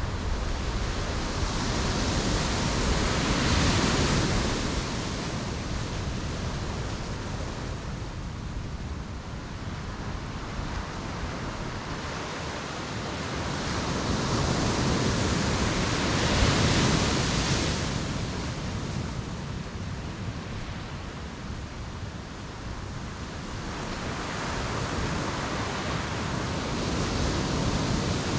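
Ocean surf breaking on the shore: slow swells of wave noise that build, crash and wash back about every twelve to thirteen seconds.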